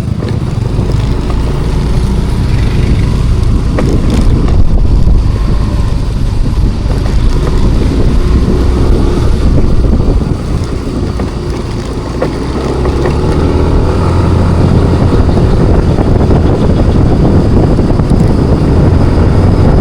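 Riding noise from a Yamaha NMAX Turbo scooter underway: wind rushing over the microphone over the scooter's single-cylinder engine. The rush eases a little about ten seconds in, then builds again.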